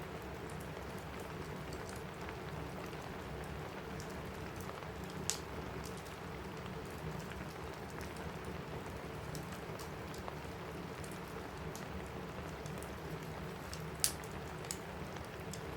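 Steady rain on a roof mixed with a crackling wood fire. A sharp pop sounds about five seconds in, and a louder one near the end.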